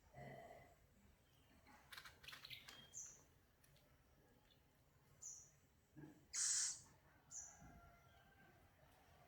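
Owl chick giving short, high-pitched calls a second or two apart, one of them louder and broader about two-thirds of the way through. A few faint clicks come around two seconds in.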